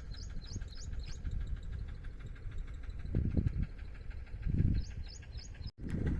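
A small bird chirping in quick repeated notes, about three a second, in the first second and again near the end, over a steady low rumble.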